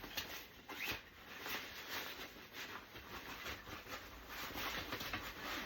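Irregular rustling and light plastic knocks as playard parts are handled and fitted together during assembly.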